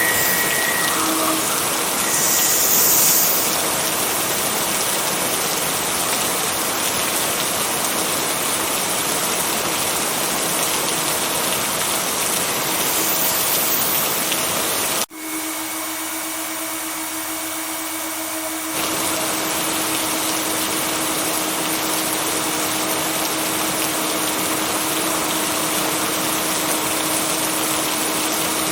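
Steady, dense rain hiss with a faint low hum running under it. About halfway through the sound cuts abruptly, dips briefly, and carries on with the hum more distinct.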